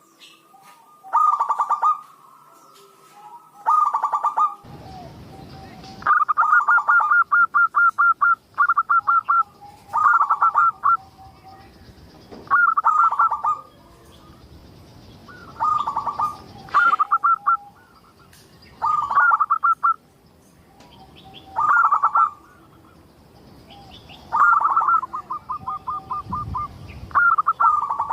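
Zebra dove (perkutut) cooing over and over: short phrases of rapid repeated coo notes, one phrase every second or two, some running into longer strings.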